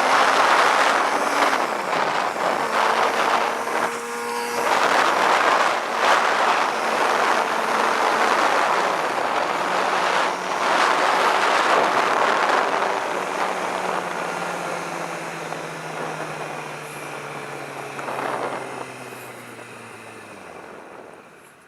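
Kawasaki ZX-6R 636 sport bike's inline-four engine under way, with heavy wind rush. In the last third the engine note falls steadily and the sound dies down as the bike slows.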